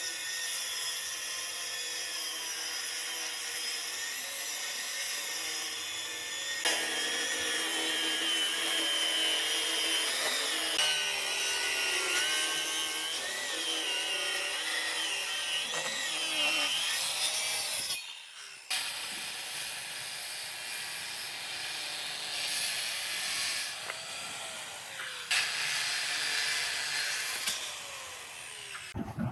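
Power tool working wood, running steadily, with a pitch that wavers under load. It breaks off and changes character abruptly several times, as between separate shots.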